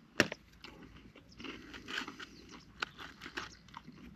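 A person eating fish and chips, biting and chewing with crisp crunches close to the microphone. The sharpest crunch comes about a quarter of a second in, with another a little before the end.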